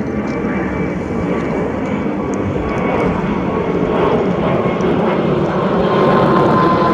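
Engines of a Bombardier CS100 (Airbus A220) airliner, Pratt & Whitney PW1500G geared turbofans, running loud: a steady rushing noise with a thin whine, both growing louder toward the end.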